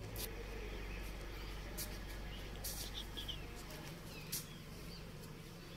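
Birds chirping now and then, a few short high chirps, over a steady low background hum.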